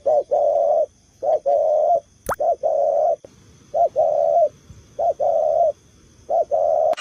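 A dove or pigeon cooing: six repeated phrases about a second apart, each a short note followed by a longer, steady one. Behind it is a steady high insect trill, and there is a quick upward sweep a little past two seconds in.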